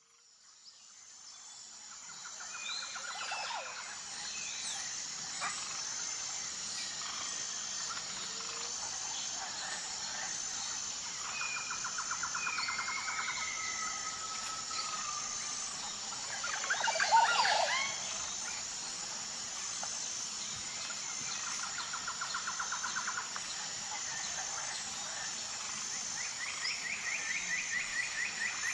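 Outdoor nature ambience: birds calling, with several rapid trilled phrases and one louder call about two-thirds of the way through, over a steady high-pitched pulsing drone. It fades in over the first couple of seconds.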